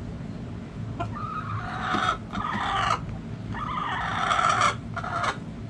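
Backyard roosters crowing: two long, harsh crows one after the other, the first about a second in and the second near the end, over a steady low background rumble.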